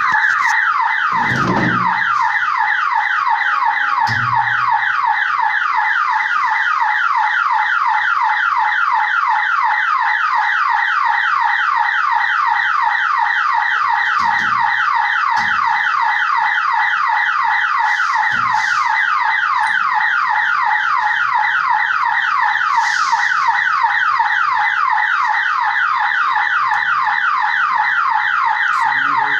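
Level-crossing warning buzzer sounding continuously as an electronic warble of rapidly repeated falling tones, the signal that a train is approaching and the gate must be closed; it cuts off abruptly near the end.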